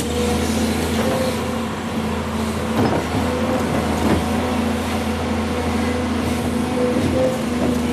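Volvo EC210 excavator's diesel engine running steadily while it works, with a couple of faint knocks about three and four seconds in.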